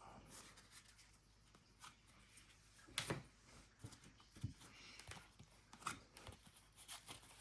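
Faint handling of trading cards: quiet rustling and sliding of cards against each other, with scattered light clicks and one sharper snap about three seconds in.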